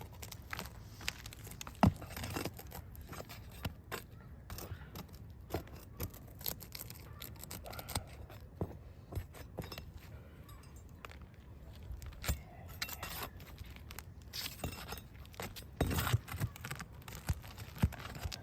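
Asphalt roofing shingles being handled and pried up: irregular scraping, crinkling and small clicks, with a sharp click about two seconds in and a busier stretch of scraping near the end.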